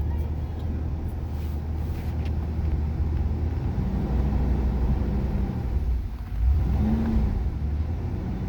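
1977 Corvette's 350 small-block V8, cold from the start, running with a low rumble and revved up briefly twice, once around four seconds in and again, more sharply, shortly before seven seconds.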